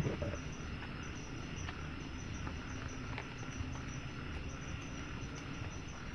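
Insects, likely crickets, trilling steadily in a high, even band over a constant hissing background, with a short knock at the very start.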